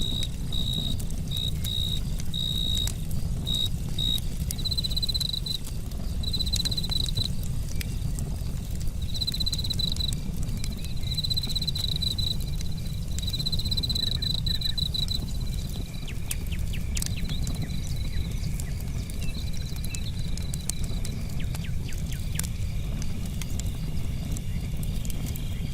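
Crickets chirping in short high-pitched pulses, joined about halfway by a steadier, lower-pitched insect call, over a steady low rumble and scattered sharp crackles of a wood campfire.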